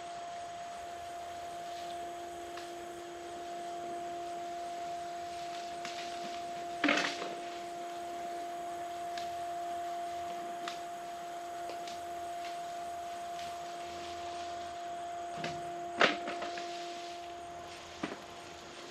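A steady pitched hum with two loud knocks, about seven and sixteen seconds in, and a few lighter clicks.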